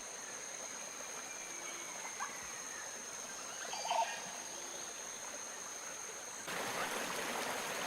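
Faint outdoor ambience: a steady hiss with two thin high tones held throughout, a couple of brief faint animal calls about two and four seconds in, and the hiss growing louder about six and a half seconds in.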